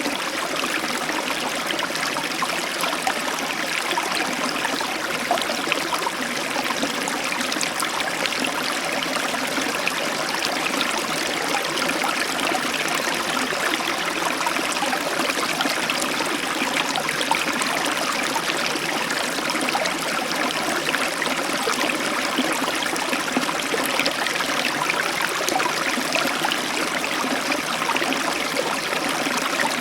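Heavy tropical downpour: a steady, dense hiss of rain, unchanging throughout.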